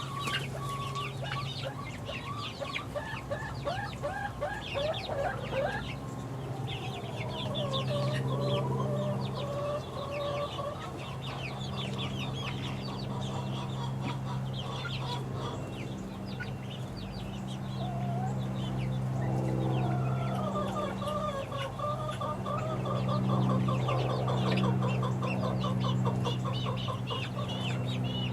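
A flock of six-week-old chickens peeping and chirping constantly, with soft trilling calls rising and falling among them, over a steady low hum.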